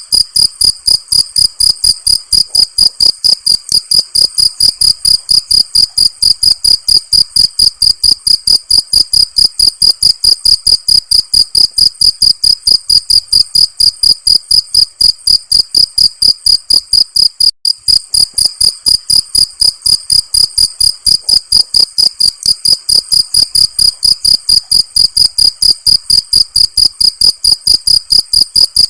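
Cricket chirping in a fast, even rhythm of about four to five high-pitched chirps a second.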